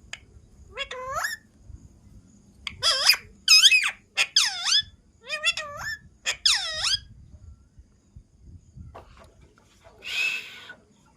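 A pet parrot calling: about six short, high-pitched squeaky calls whose pitch bends up and down, then a single harsh screech near the end.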